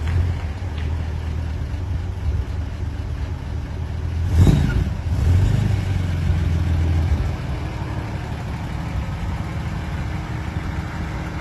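Truck engine running just after being started, with a brief sharp thump about four and a half seconds in, then settling to a quieter, steady idle after about seven seconds.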